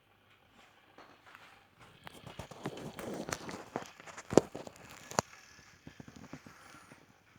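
Electric kettle heating its water in the early stage: crackling and ticking build up for about three seconds, with two sharp clicks near the middle, then die down to scattered faint ticks.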